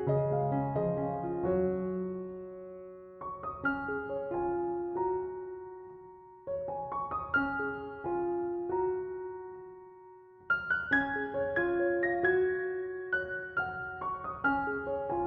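Background piano music: gentle phrases of plucked-sounding notes that each begin with a cluster and fade out, a new phrase starting about every three to four seconds.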